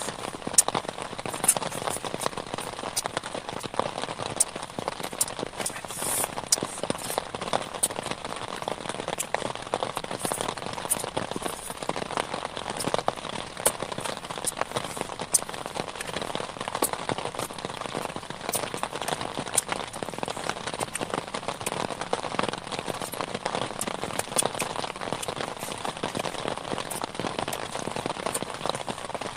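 Heavy rain falling steadily, with many individual drops striking close by as sharp ticks.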